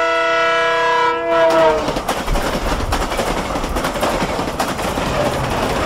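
Train horn sounding a chord of several notes, dipping slightly in pitch as it cuts off about two seconds in. After it comes a steady rushing noise with scattered clicks.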